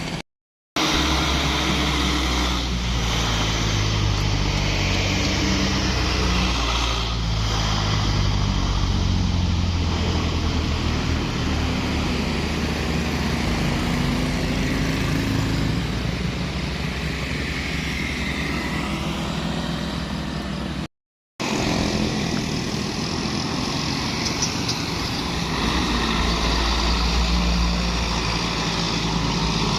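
Heavy truck's diesel engine labouring up a hill, running loud and steady while its pitch shifts slowly. The sound breaks off for a moment twice, near the start and about two-thirds of the way through.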